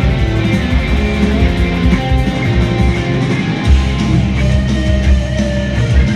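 Heavy rock music: an electric guitar plays a melodic line of held notes over bass and drums.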